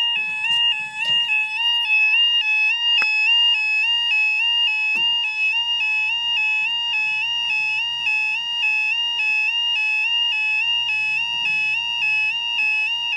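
Level crossing warning alarm sounding a rapid two-tone alternation between a higher and a lower pitch, warning that a train is approaching. It stops abruptly at the very end.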